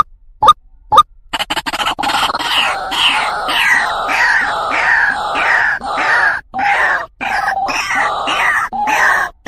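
White-breasted waterhen calling: a few short, sharp notes about two a second, then from about a second in its loud, harsh, repeated 'ruak-ruak' croaking, with a few brief breaks near the end.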